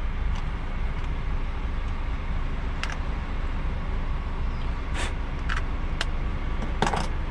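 Steady low rumble of engine and road noise inside a DAF XF truck cab while driving, with a few short clicks in the second half.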